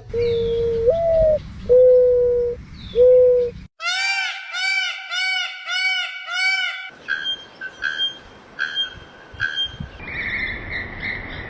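Calls of several different birds spliced one after another: first a few low whistled notes, one sliding upward; then about three seconds of rapid, evenly repeated arched notes; then a series of separate sharp notes about three a second; then another repeated call near the end.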